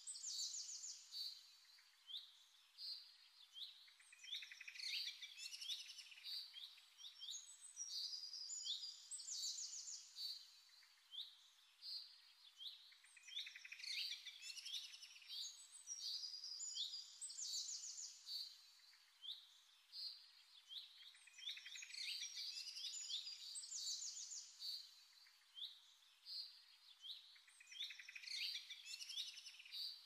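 Songbirds chirping and trilling in high, rapid phrases that recur every few seconds.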